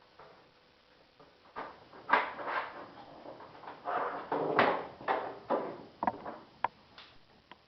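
A resin mold being pried off its foam plug: a run of irregular cracks, creaks and scrapes, with a few sharp snaps near the end.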